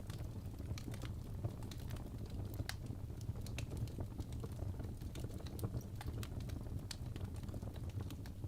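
Wood fire burning in a fireplace: logs crackling with irregular sharp pops, several a second, over a steady low rumble of the flames.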